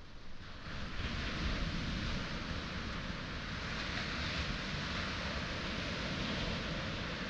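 Sea surf washing onto a pebble shore: a broad hiss of breaking water that swells about a second in and then holds steady.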